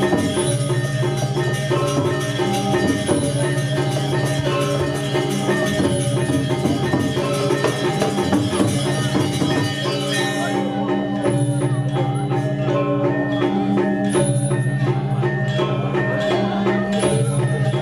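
Balinese gamelan playing a steady pattern of pitched metal mallet percussion and drums, with a low note returning at regular intervals. The bright high clashing thins out about ten seconds in.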